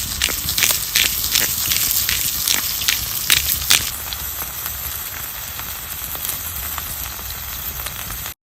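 Wood fire burning in a homemade log stove (Swedish torch), crackling with many sharp pops over a steady hiss. The pops thin out about halfway through, and the sound stops abruptly near the end.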